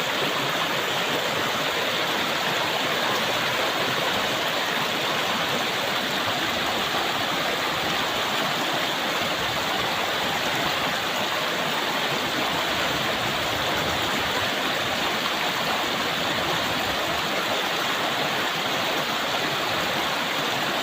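A river's fast shallow water rushing steadily over stones, an even, unbroken rush.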